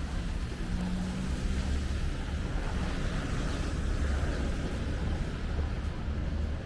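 City street traffic: a low, steady vehicle engine rumble with a hiss of tyres on the road that swells about three to four seconds in.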